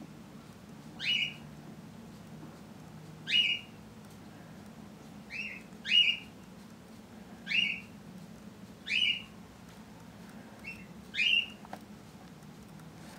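A bird chirping: six short, sharp chirps spaced about two seconds apart, two of them with a quick lead note, over a faint steady low hum.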